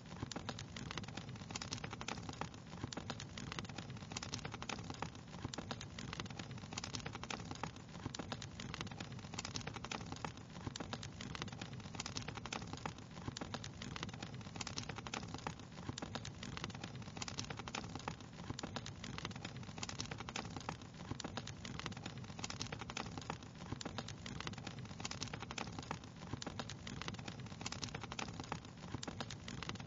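Wood fire crackling steadily: a low, even rumble of burning with many small sharp pops and snaps scattered throughout.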